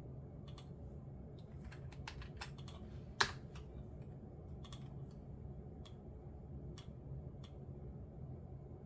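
Computer keyboard keystrokes, sparse and irregular: a short run of keys about two seconds in and one louder key strike about three seconds in, with single taps spread through the rest. A faint steady low hum runs underneath.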